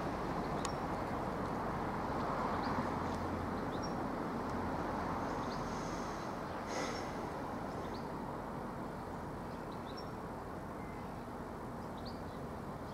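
Class 175 Coradia diesel multiple unit pulling away, its engine and wheel noise a steady rumble that slowly fades as it recedes. Birds chirp briefly now and then over it.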